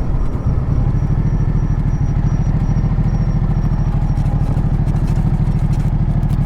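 Ducati Multistrada 1200's V-twin engine running steadily with an even low pulse.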